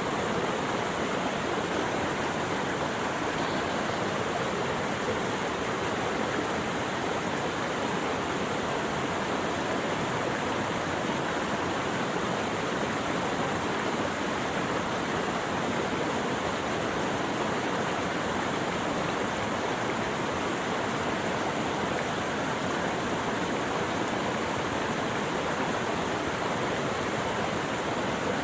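Steady rushing of running water, like a stream or small waterfall, an even hiss with no change throughout.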